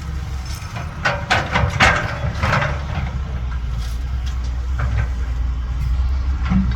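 CAT 320BL excavator's diesel engine running with a steady low rumble, with a burst of clanks and rattles about a second in, and a few lighter knocks later on.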